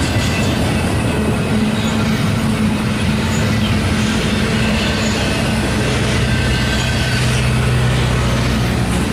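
Freight train of double-stack intermodal container cars rolling past, a steady loud rumble of wheels on rail with a low steady hum.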